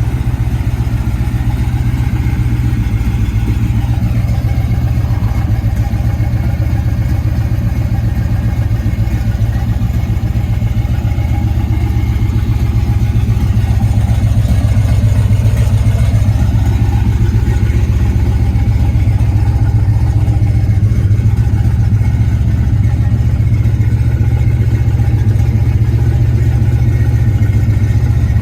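V8 engine of a 1957 Chevy truck running steadily with a deep, even rumble, getting slightly louder about halfway through.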